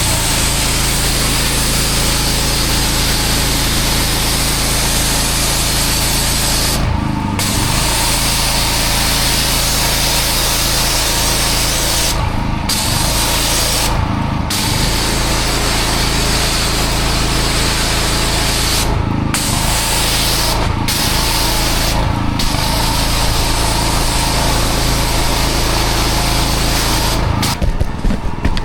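Pressure washer running, its high-pressure water jet hissing over a steady machine hum. The spray cuts out briefly about seven times, the longest near the end, while the machine keeps running.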